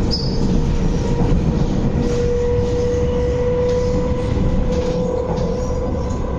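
Inside an MTR East Rail Line MLR electric train running at speed: a steady low rumble of wheels on the track, with a steady whine from the traction equipment that grows a little louder through the middle.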